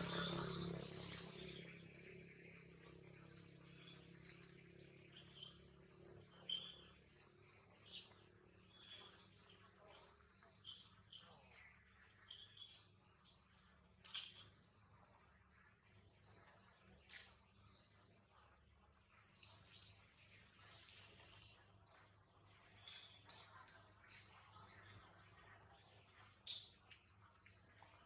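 Small birds chirping: short, high calls repeated a few times a second, some louder and closer than others. A low hum fades away over the first few seconds.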